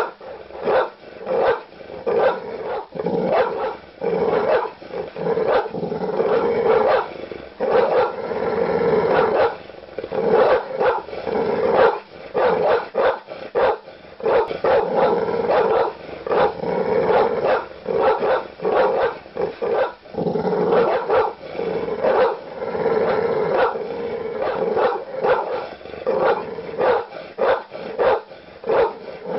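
A large dog barking aggressively in a steady run of deep barks, about two a second, with growling between them.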